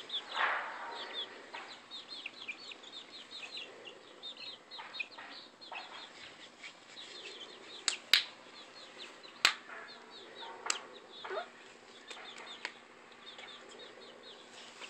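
Chickens chirping and clucking, with many short high falling peeps throughout and a brief rustle at the start. Three sharp knocks, about 8, 9.5 and 11 seconds in, are the loudest sounds.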